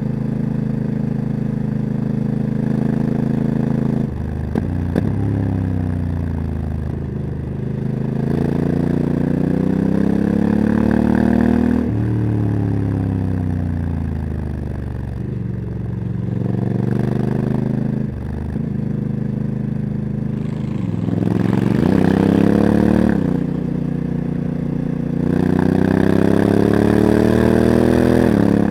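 Honda CRF1100L Africa Twin DCT's parallel-twin engine through a Leo Vince exhaust, under way: it pulls up through the revs and eases off again several times, the pitch climbing for a few seconds and then dropping sharply as the automatic gearbox shifts up.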